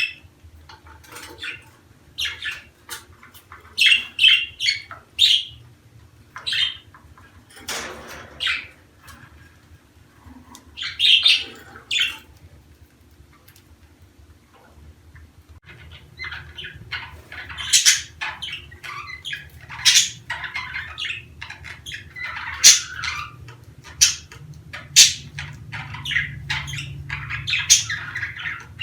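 Budgerigars chirping and squawking in short, high calls, scattered at first and then a busier run of chatter from about halfway.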